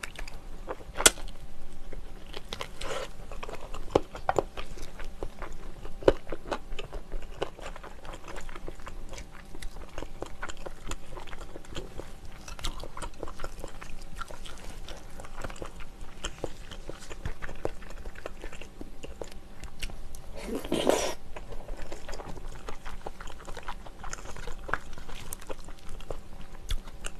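Close-miked ASMR eating sounds: a person chewing and biting soy-braised chicken and kimchi, with many small crunches and mouth clicks. One louder, brief sound comes a little after twenty seconds in.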